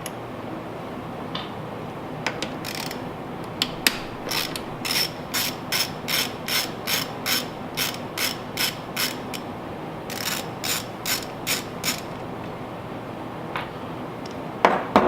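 Ratchet wrench with an 8mm socket clicking as it backs out the carburetor mounting bolts on a Honda EU2000 generator, in runs of about two to three clicks a second with short pauses between strokes.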